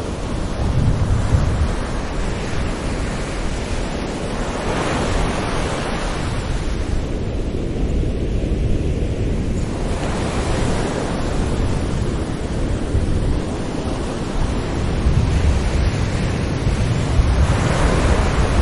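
Sea waves breaking on a shore: a continuous low rumble of surf, with the hiss of a wave washing in swelling and fading every several seconds, about three times.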